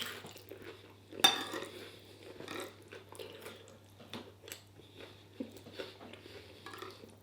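Cutlery clinking and scraping on a plate with a few short clicks while someone eats a chicken stir fry, with chewing. A faint steady low hum runs underneath.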